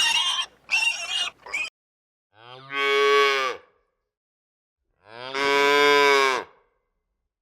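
Two long moos from a calf, one about two seconds in and one about five seconds in, each held for over a second. In the first second and a half, a few short harsh animal squeals.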